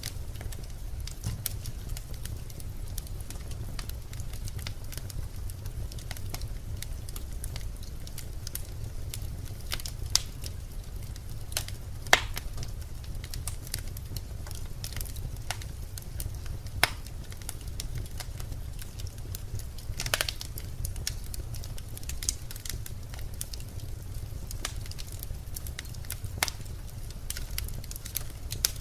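Birch logs burning in a fireplace, crackling with irregular small pops over a steady low rumble of the flames, with a few louder snaps now and then.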